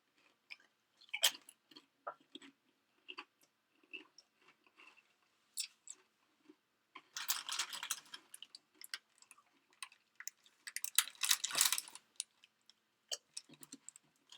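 Crunchy snack being bitten and chewed close to the microphone: a run of crisp crunches, with two longer, louder stretches of crackling about seven and eleven seconds in.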